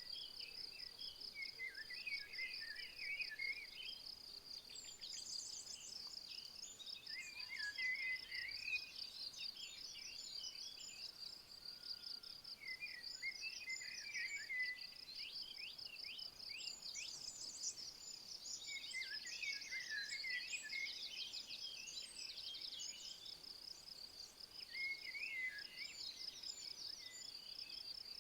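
An insect, likely a cricket or bush-cricket, trilling steadily in a fast, even, high-pitched pulse, while a songbird sings short chirping phrases about every five seconds, five phrases in all.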